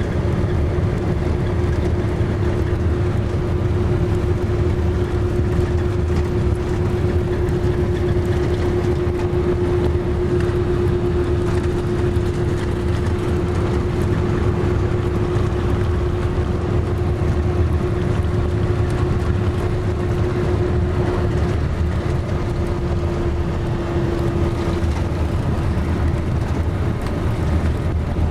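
Steady road and engine noise of a car driving on a highway: an even low rumble, with a steady hum that fades out a little before the end.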